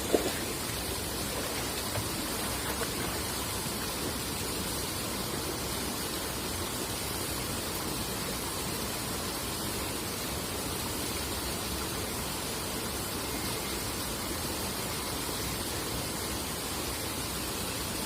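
River water rushing steadily past, an even hiss with no pauses; a brief knock or two right at the start.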